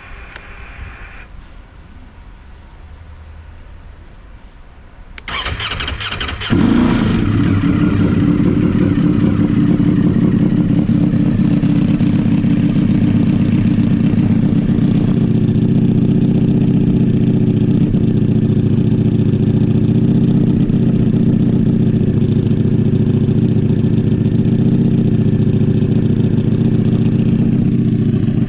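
Ducati Panigale V4 with a Termignoni titanium underseat exhaust being started: the starter cranks about five seconds in, the V4 catches a moment later and then runs loudly and steadily.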